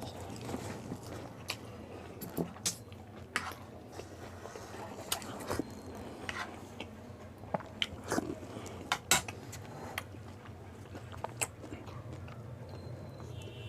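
Close-up eating of pani puri: crisp hollow puri shells crunched between the teeth and chewed wetly, with irregular sharp crunches every second or so over a low steady hum.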